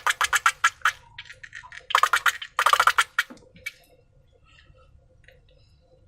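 Slime being worked by hand, making quick sticky clicks and squelches, about ten a second. The clicking stops about a second in, comes back in two short bursts around the middle, and then fades to a few faint ticks.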